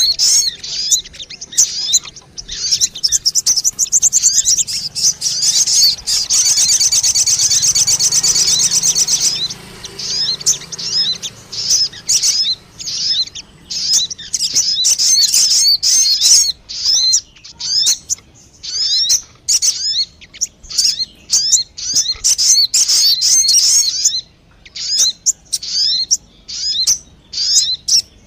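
Sogon bird lure call: quick runs of high chirps, one after another, with a longer continuous trill about six seconds in.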